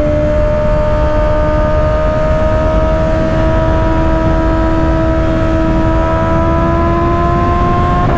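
2024 Kawasaki ZX-6R's 636 cc inline-four with an M4 aftermarket exhaust pulling on the freeway, its engine note slowly climbing, then dropping sharply at the very end as it shifts up. Heavy wind rush underneath.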